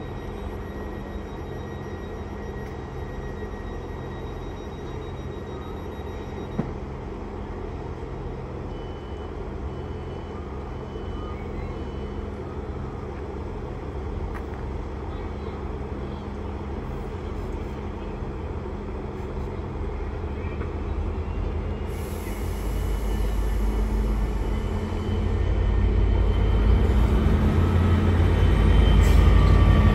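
Railway train sound: a steady low engine hum that grows steadily louder through the last third, with a faint rising whine, as a train draws near.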